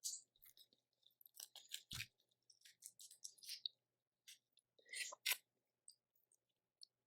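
Eating a seafood boil: a scattered run of short clicks and crunches as shellfish is handled and chewed, with a dull thump about two seconds in and the sharpest clicks about five seconds in.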